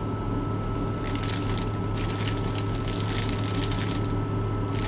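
Plastic bag crinkling and rustling in irregular bursts as bagels are handled, over a steady low hum.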